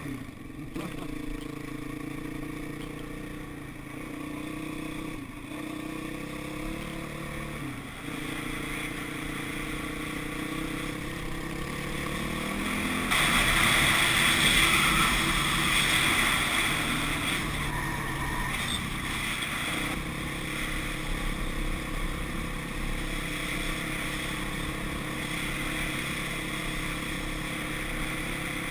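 Dirt bike engine running while riding, its pitch stepping and gliding with throttle and gear changes. About halfway through, a louder rushing noise rises over it for a few seconds, then the engine settles at a steady pitch.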